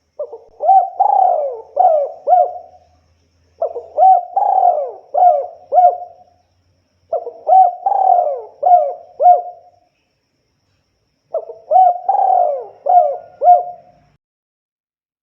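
Spotted dove (tekukur) cooing: four song phrases with short pauses between, each a brief lead-in note followed by four or five coos.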